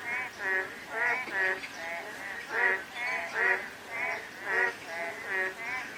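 A chorus of frogs croaking, short rapidly pulsed calls repeating about twice a second and overlapping from several frogs, with light drizzle faintly behind.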